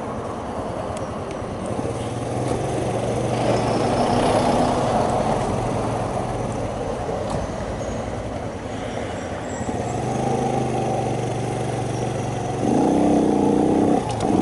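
Shineray 50cc motorcycle engine running steadily, then rising in pitch and getting louder near the end.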